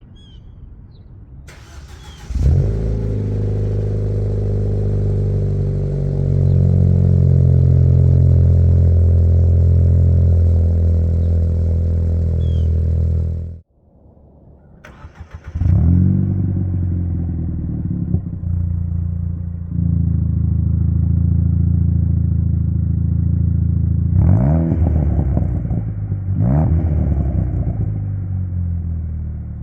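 Ford Fiesta ST's 1.6-litre turbocharged four-cylinder engine through a Rev9 3-inch catback exhaust, started and idling, then shut off about 13 seconds in. It is started again and idles, with two quick revs near the end before settling back to idle.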